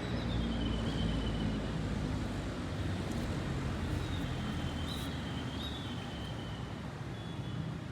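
Steady outdoor background noise with a low rumble, and faint thin high tones near the start and again around the middle.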